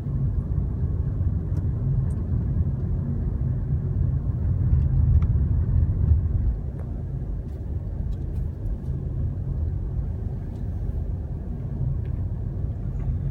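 Road and engine noise of a moving car heard from inside the cabin: a steady low rumble, a little louder for a couple of seconds before easing about seven seconds in.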